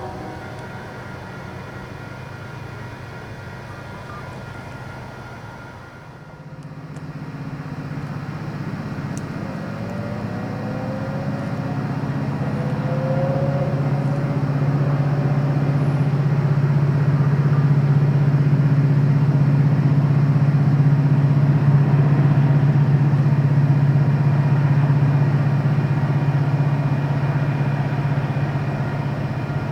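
A diesel locomotive's engine drone, growing louder from about six seconds in, loudest past the middle, then easing off as the train passes.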